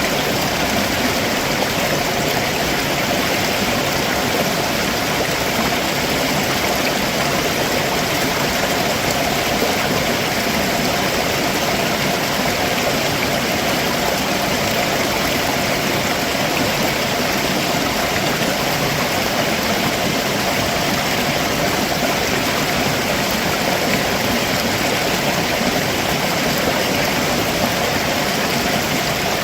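Stream water running over rocks below a waterfall, a steady, even rushing.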